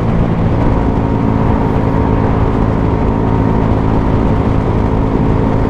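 Suzuki GSX-S 125's single-cylinder four-stroke engine, fitted with a Mivv GP Pro aftermarket exhaust, running steadily while the bike is ridden at low speed.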